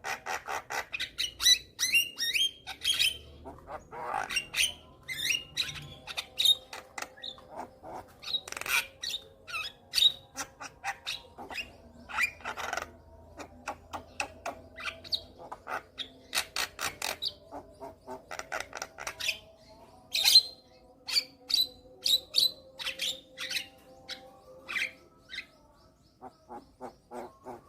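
Javan myna (jalak kebo) singing a rapid, varied stream of harsh squawks, chirps and clicking notes. There is a short pause near the end, followed by quieter calls.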